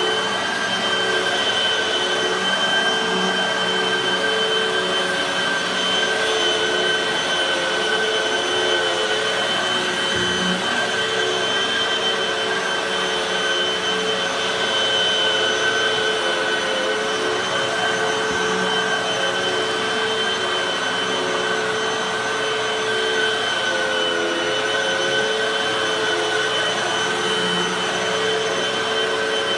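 Hoover High Performance Pet vacuum cleaner running with a steady motor whine, the pitch dipping briefly about 24 seconds in.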